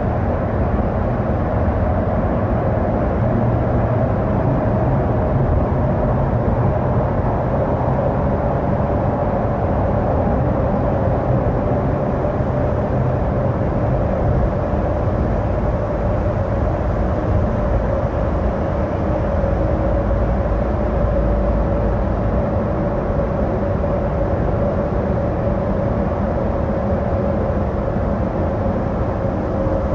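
Steady road noise of a car driving, a low rumble with a steady hum that sinks slightly in pitch.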